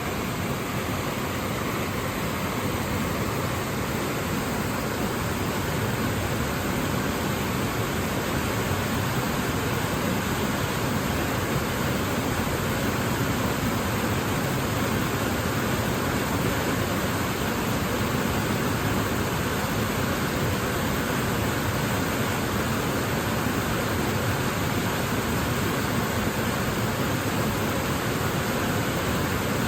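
Waterfall: water falling and rushing in a steady, even roar with no change.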